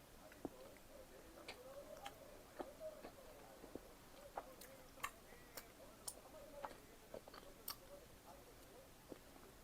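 Quiet chewing of pizza: scattered soft mouth clicks and smacks at irregular intervals.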